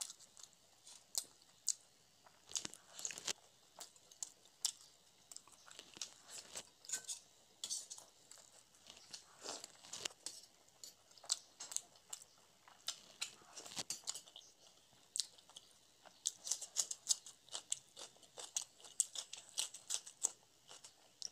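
Chewing of paratha and chana masala: an irregular run of many short, clicky mouth sounds.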